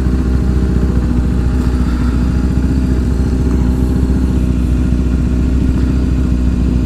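Motorcycle engine running at a steady pitch under constant throttle while riding, over a steady low rumble.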